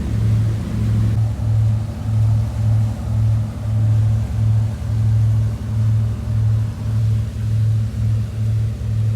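Boat engine running steadily, a low hum that throbs about twice a second.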